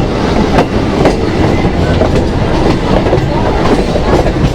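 Suburban electric local train running between stations, a steady rumble with its wheels clicking over the rail joints, heard from inside the carriage.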